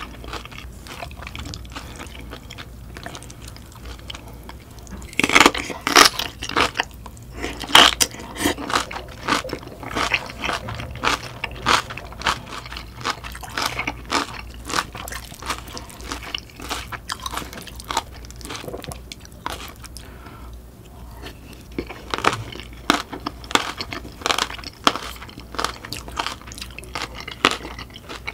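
Close-miked eating sounds of a person chewing and biting crunchy napa cabbage kimchi and curry with sliced green chillies: a dense run of crunches and mouth clicks. They are loudest about five to eight seconds in and ease off briefly around twenty seconds in.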